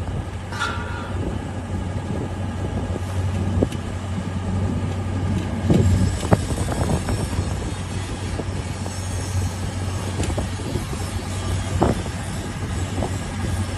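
Steady low engine hum with a noisy rumble, broken by scattered knocks and clicks.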